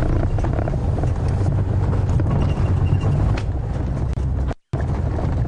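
Safari vehicle's engine running as it drives over rough bush ground, with a low rumble and scattered knocks. The sound drops out completely for a moment near the end.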